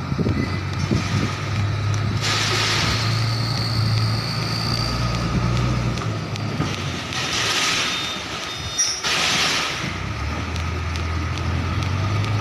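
Tractor-trailer truck engine running low and steady while it reverses, with several bursts of hissing a couple of seconds long.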